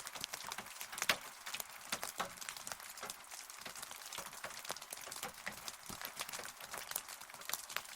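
Steady rain falling, a dense irregular patter of individual drops striking a hard surface, with a few sharper, louder drop hits, the strongest about a second in.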